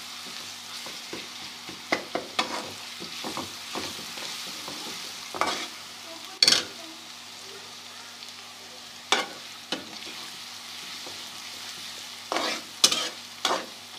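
Onion and ginger-garlic paste sizzling in hot ghee in a pan, with a steady hiss. A utensil stirs and scrapes against the pan in short clinks every second or few seconds.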